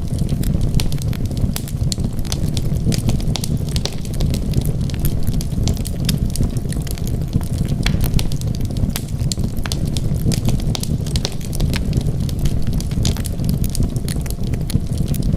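Wood fire burning: a steady low rumble of flames with many small, irregular crackles and pops of burning wood.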